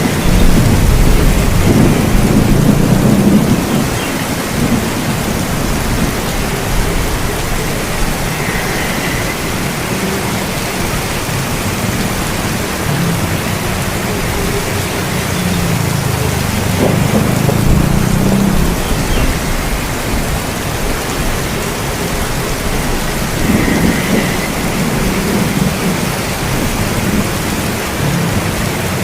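Steady rain with rolls of thunder. The loudest low rumble comes at the start and lasts about four seconds; fainter rumbles come a little past the middle and again near the end.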